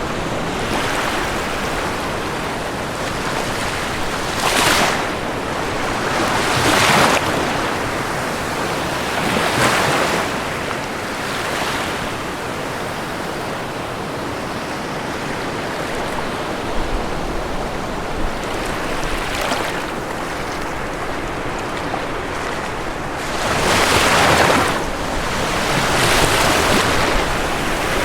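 Ocean waves breaking and washing on a shore in a continuous hiss, with surges every few seconds and a louder wave about three-quarters of the way through.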